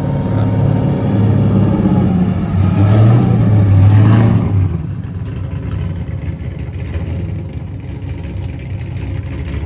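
A car engine revs and grows louder to a peak about four seconds in, then drops away, leaving a quieter steady noise.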